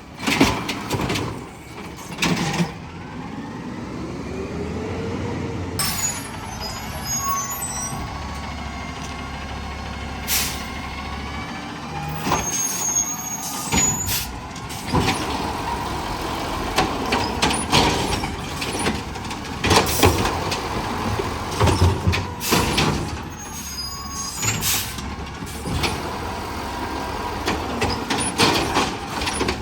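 Garbage truck at work: its engine runs under a whining hydraulic lift, with repeated knocks and bangs and hisses of the air brakes.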